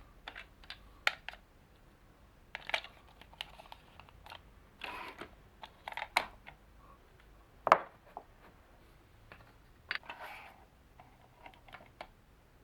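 Glass marbles clicking and knocking as they run down a marble run track. Irregular sharp ticks are broken by a few short rolling rushes, and the loudest knock comes a little under eight seconds in.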